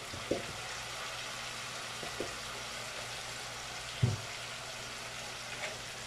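Sliced bitter melon sizzling in oil in a frying pan, a steady hiss, just after being tipped into the hot pan. A few light knocks come through it, the loudest about four seconds in.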